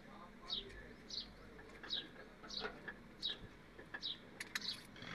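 A bird calling over and over, a short falling chirp about every two-thirds of a second, with a few sharp clicks near the end.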